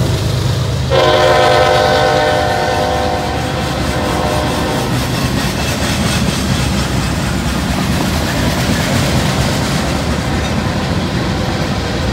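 Freight train rolling past, its cars clattering over the rails with a steady rumble. About a second in, a locomotive air horn sounds one long chord of several tones, fading out after about four seconds.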